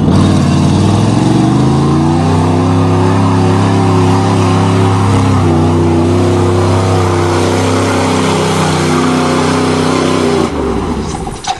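Pickup truck's V8 engine revving up and held at high revs for about eight seconds while the truck churns through mud, then dropping off near the end.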